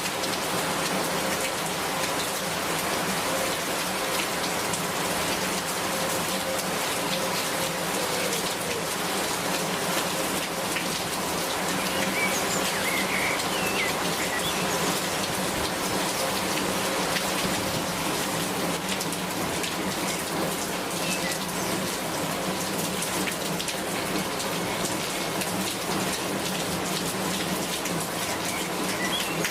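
Steady rain falling without a break, with individual drops striking close by as fine ticks through the even hiss.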